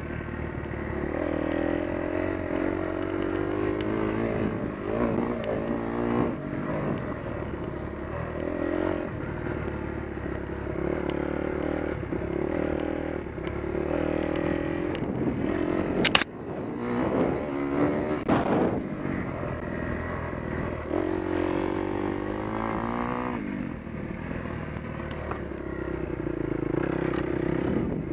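Kawasaki KX250F motocross bike's single-cylinder four-stroke engine running while ridden, revs rising and falling over and over with the throttle. A single sharp knock stands out about halfway through.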